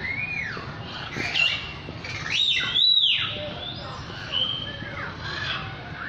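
Birds singing: a run of loud whistled notes that each rise and fall in an arc, some overlapping, with the loudest about halfway through.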